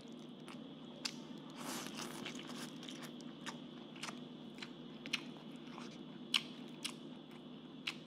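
A person chewing a mouthful of food close to the microphone, with irregular sharp crunchy clicks and a brief noisier stretch about two seconds in, over a steady low hum.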